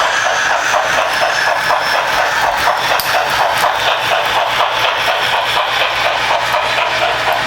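Märklin HO model train running on three-rail C track: a steady motor whir with wheels clicking regularly over the rail joints.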